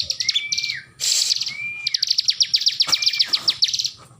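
Bar-winged prinia (ciblek) singing: fast rattling trills of high notes broken by short level whistles that drop away at the end, in phrases repeated about every second.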